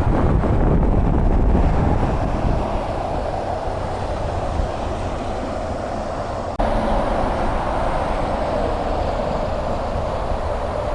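Steady road traffic noise: vehicles and tyres running on a highway. The sound changes abruptly about two-thirds of the way through.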